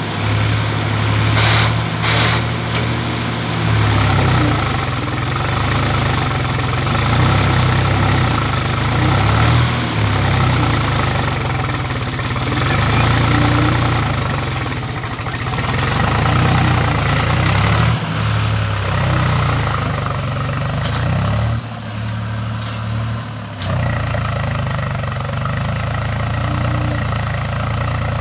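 Tractor engine running, a loud low rumble that rises and falls in level and briefly drops off about twenty-two seconds in.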